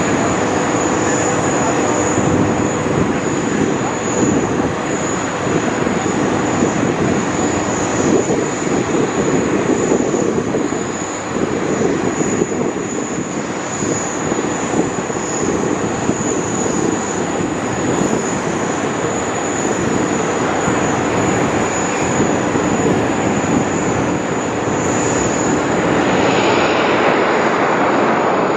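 Boeing 777X airliner's twin GE9X turbofan engines in flight, a loud steady jet noise with a thin high whine running through it.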